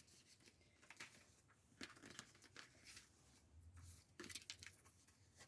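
Near silence with faint, scattered rustles and light taps of paper sticker sheets being handled.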